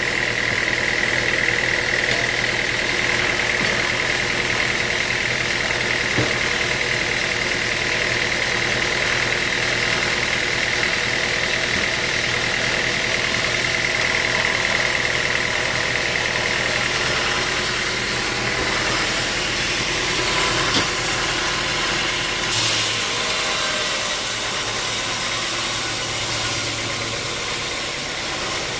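Sawmill machinery running steadily with an engine hum. A high whine fades away after about seventeen seconds, and a sudden hiss starts about twenty-two seconds in.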